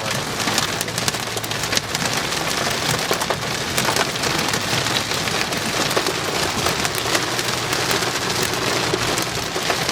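Hail and heavy rain pelting a vehicle's roof and windshield, heard from inside the cabin: a dense steady hiss with many sharp ticks of hailstones striking, over a low road hum.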